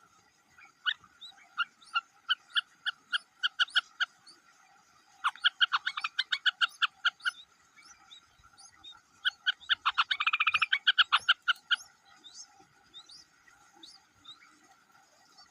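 Three rapid series of short, repeated animal calls, each series quickening as it goes, the last almost running together, over a steady background chorus.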